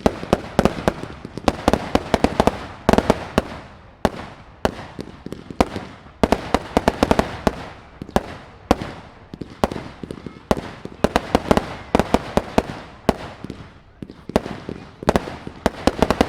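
Fireworks display: rapid volleys of sharp bangs and crackling reports, coming in dense clusters whose loudness swells and falls every one to two seconds.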